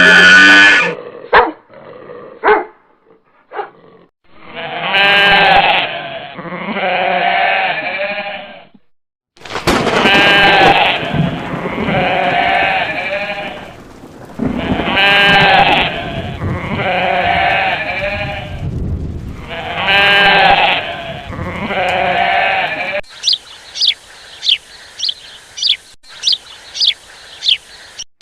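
Bleating farm animal giving about eight long, quavering calls, mostly in pairs. Near the end, a bird takes over with a quick run of short, high chirps, about two a second.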